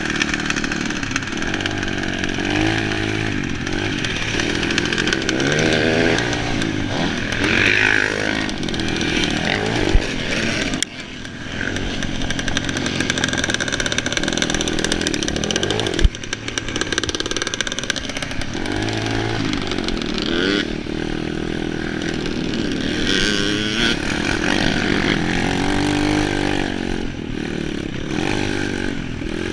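Motocross bike engine, recorded on board, revving up and falling back again and again as the rider works the throttle through the ride. There are two sharp knocks, about ten and sixteen seconds in, and the engine drops off briefly just before eleven seconds.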